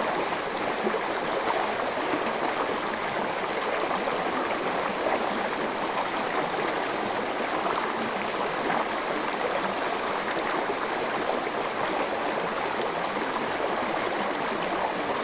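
Forest stream flowing steadily over rocks, a continuous rushing with fine gurgling.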